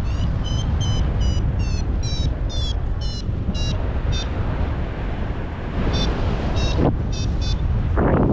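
Paragliding variometer beeping in short, quick pips, its pitch shifting up and down a little, the climb tone that signals the glider is rising in lift; the beeps stop for about two seconds mid-way, then return. Strong wind rushes over the microphone throughout.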